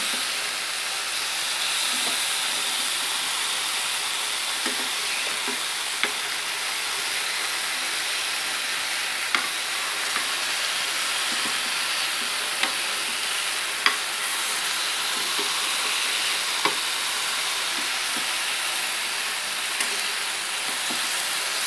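Teriyaki-marinated paneer pieces sizzling steadily in oil on a hot tawa over full flame, with a handful of sharp clicks and scrapes as a metal spatula turns the pieces on the pan.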